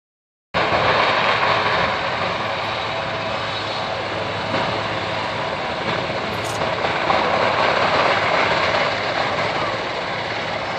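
Marine One presidential helicopter running, a steady, loud rush of engine and rotor noise.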